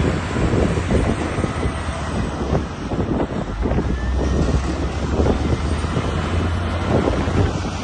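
Caterpillar 938G wheel loader's diesel engine running with a steady low drone, with wind buffeting the microphone.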